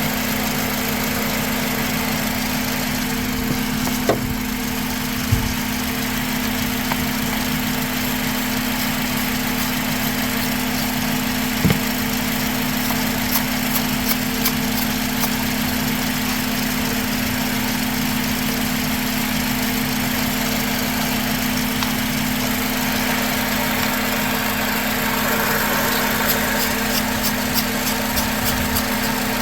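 2004 Honda Accord engine idling steadily, with a few sharp clicks and bursts of light ticking over it.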